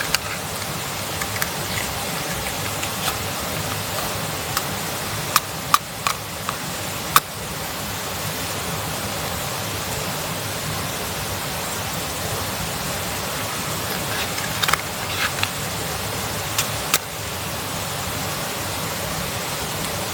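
Wood campfire crackling, a steady hiss broken by scattered sharp pops: a few in the first half and a cluster of them later on.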